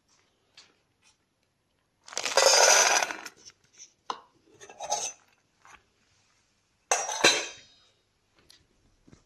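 Dishes and a food bowl clattering as a dog's meal is prepared: a long rattling burst about two seconds in, a few lighter knocks, then a sharp clink with a ringing tail near seven seconds.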